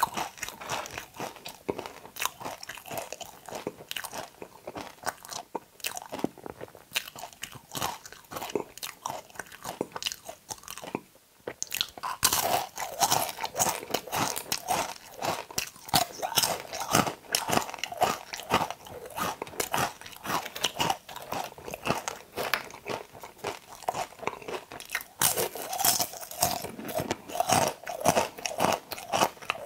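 Close-miked chewing and biting of okra: a dense run of quick crunches, with a short pause about eleven seconds in, after which the chewing is louder.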